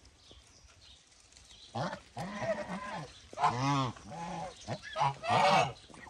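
Domestic geese honking: after a short quiet spell, a string of loud, nasal honks, several overlapping, about two seconds in and running to near the end.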